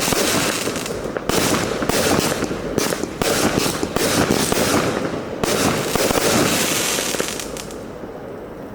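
Firework cake (Black Cat 'Dance of the Dragon', 56-shot single ignition) firing its rapid-fire finale: bangs in quick succession, dying away near the end.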